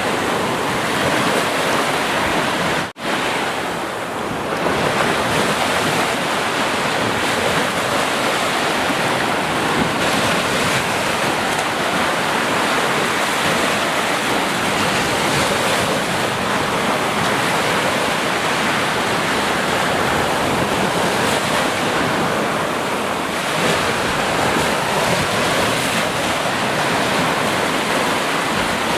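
Ocean surf: waves washing in on the shore in a continuous, even roar, with a momentary break in the sound about three seconds in.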